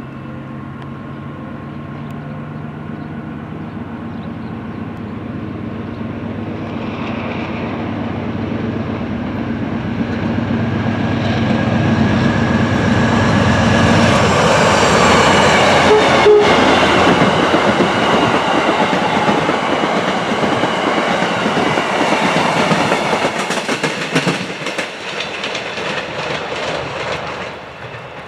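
A diesel passenger train approaching and passing close by, growing steadily louder for about fifteen seconds, then its wheels clicking rapidly over rail joints as the cars go by. The sound drops away near the end.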